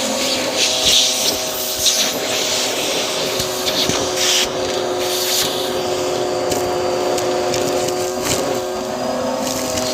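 Bissell vacuum cleaner running with its crevice tool, a steady motor whine underneath short bursts of rushing, hissing airflow in the first half as the nozzle works the surface. A few sharp clicks come through, and the motor's pitch shifts slightly near the start and again near the end as the airflow changes.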